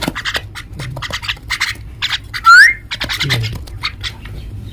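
Common mynas calling: a fast, dense run of short harsh chirps, with one loud rising whistle about two and a half seconds in.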